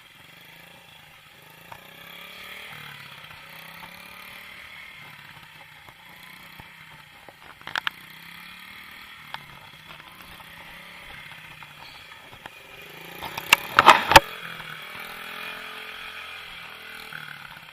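Small motorcycle engine running, its pitch rising and falling with the throttle. A few sharp knocks cut through it, the loudest in a cluster about three-quarters of the way through.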